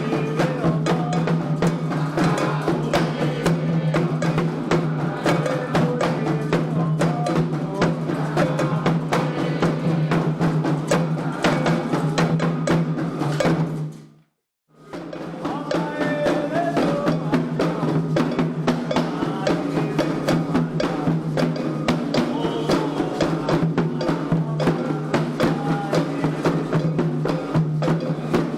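Candomblé xirê music: atabaque hand drums and a struck bell or wood-block part played in a fast, dense rhythm, with singing over it and a steady low hum underneath. The sound cuts out completely for about a second about halfway through, then the drumming and singing resume.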